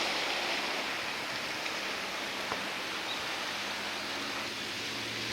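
Steady rushing wash of sea surf along the shore.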